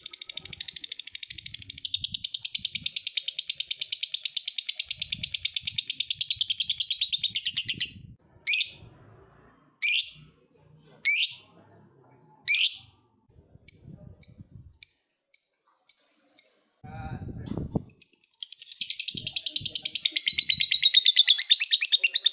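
Lovebird's long 'ngekek' song: a fast, continuous chattering trill of rapid high notes. About eight seconds in it breaks into four separate sharp falling calls and a run of short chips, then the trill starts again near the end.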